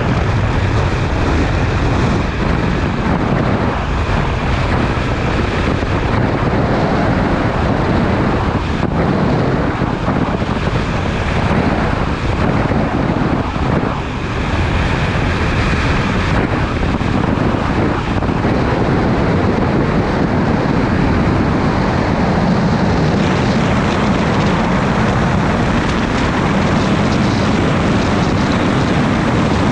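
Steady wind rush buffeting the microphone on a moving motorcycle, with the engine running underneath at a steady cruise.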